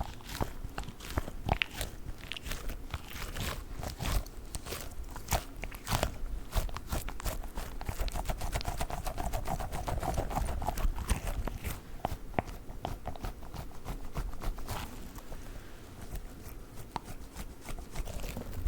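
Squishy dog toy being squeezed and handled close to the microphone, giving a dense, irregular stream of crackling, clicking squish sounds.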